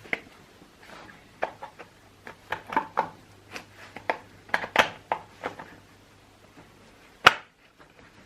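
Irregular hard clicks and knocks of chainsaw parts, including a plastic housing, being handled and fitted together, with one sharp, loud knock near the end.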